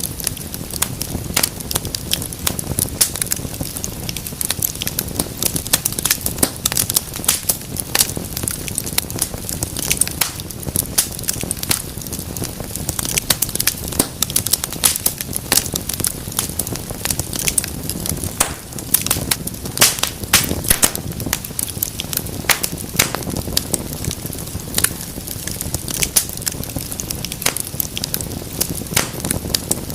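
Wood fire burning in a fireplace, with dense sharp crackles and pops over a steady low rumble of flame.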